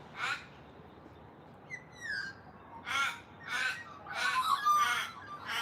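Raven cawing: a series of about six harsh caws, the later ones longer and running into each other. A few short gliding whistled notes from another bird come about two seconds in.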